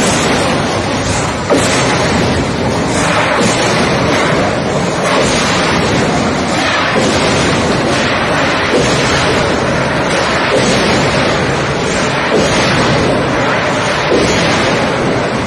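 Train passing at speed: a loud, continuous rushing noise with faint knocks recurring about every two seconds.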